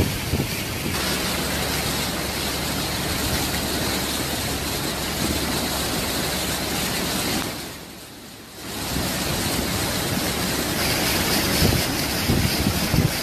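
Storm wind and rushing water making a loud, steady roar of noise, with wind buffeting the microphone. The roar drops away for about a second around eight seconds in, then comes back.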